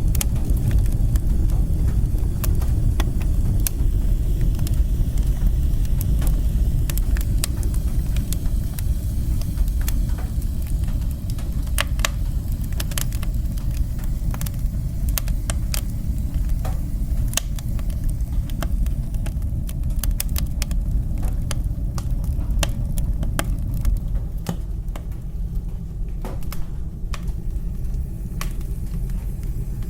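Fire burning in a fireplace: a steady low rumble with many irregular sharp crackles and pops.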